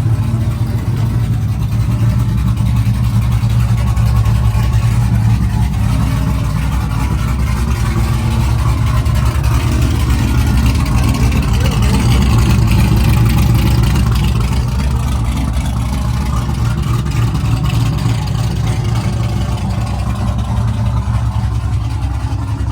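Engine of a square-body Chevy race truck running steadily at a low, deep idle, growing a little louder about twelve seconds in.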